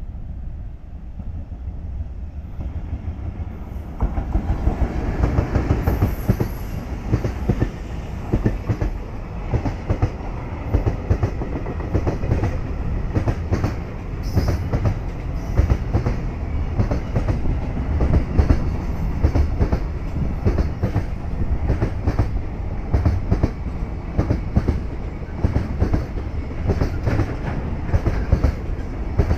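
A container freight train hauled by an EF210 electric locomotive passing through a station at speed. It starts faint and grows as it approaches, then about four seconds in turns loud as the train reaches the platform. From there the wagons run past with a steady rumble and a dense run of clacks from the wheels crossing rail joints.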